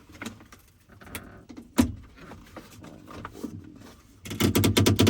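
Small metal clicks and knocks from working inside a pickup truck's door, with one sharp knock about two seconds in and a rapid rattling run of clicks near the end.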